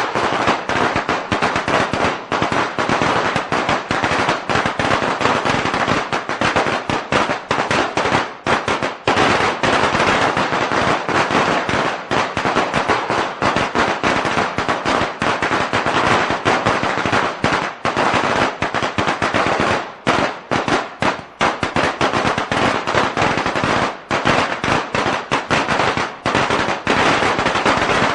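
A long string of firecrackers going off, a dense, unbroken rattle of rapid sharp bangs.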